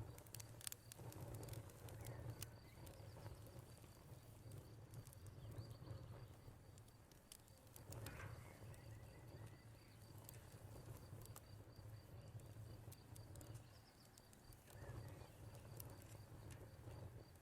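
Wood fire crackling faintly: irregular sharp pops and snaps over a low steady rumble of burning logs.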